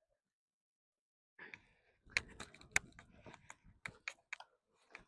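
Snow crunching: a quiet run of irregular crisp clicks and crackles that starts after about a second and a half of silence.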